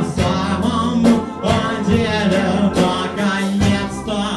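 Live band music: singing over electric guitar and bass with drums.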